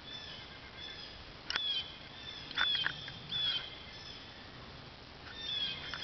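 Birds calling: a few short, sharp notes that drop in pitch, the loudest about halfway through, with fainter calls in between.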